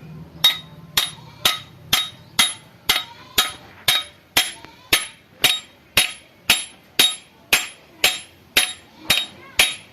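Hammer striking metal in a steady rhythm, about two blows a second, each blow ringing with a bright metallic tone.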